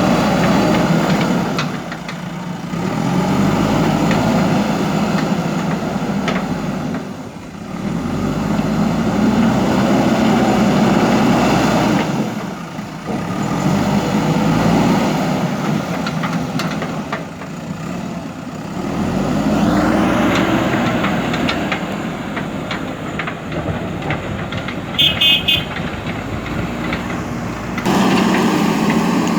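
JCB backhoe loader's diesel engine working, its revs swelling and easing again every four or five seconds as the hydraulics take load. A brief run of high beeps sounds near the end.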